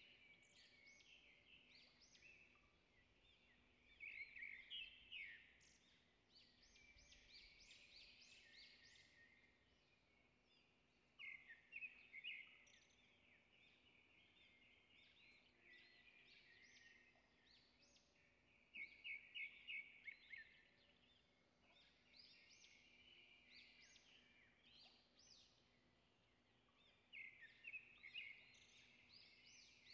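Faint birdsong: a small bird sings a short phrase of quick, high chirps about every seven or eight seconds, over a quiet background hiss.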